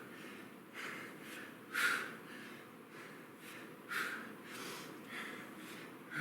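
A man breathing hard under exertion, with a sharp, forceful exhale about every two seconds and softer breaths between, in time with side-plank hip dips.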